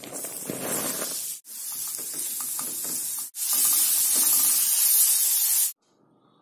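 Chopped onion, ginger and garlic sizzling in hot coconut oil in an aluminium kadai as they are sautéed. The steady sizzle drops out briefly twice and stops suddenly near the end.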